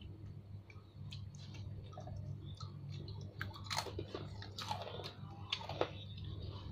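A child chewing a mouthful of fried rice eaten by hand, with the brown paper food wrapper crinkling as his fingers pick at it, loudest in the middle of the clip. A steady low hum runs underneath.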